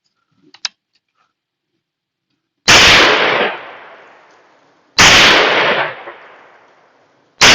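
Three shots from an AR-15 rifle chambered in .50 Beowulf, a little over two seconds apart, each followed by about a second of echo dying away; the third comes at the very end.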